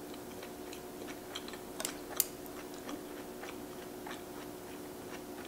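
Closed-mouth chewing of a mouthful of cooked rice: soft, scattered wet mouth clicks, with one sharper click about two seconds in, over a steady low hum.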